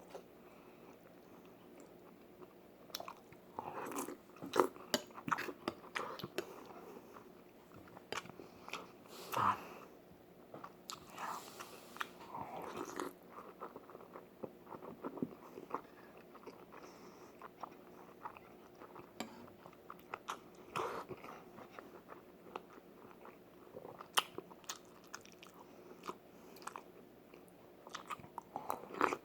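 Close-miked eating sounds of a person eating beef seaweed soup: chewing and biting, with many scattered sharp clicks.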